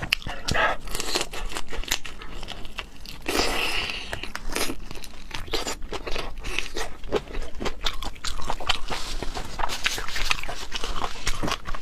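Close-miked eating of seafood: wet chewing with many quick crunches and mouth clicks, and a longer slurping or sucking noise about three seconds in.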